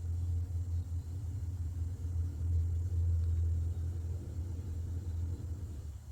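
A steady low rumble that fades away about five seconds in.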